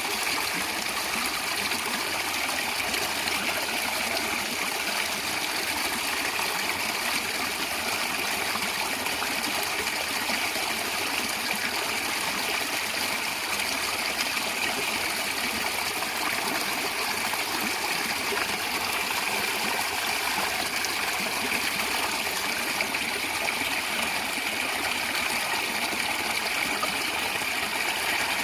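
A stream of water running and gurgling steadily, a continuous even rush with no breaks.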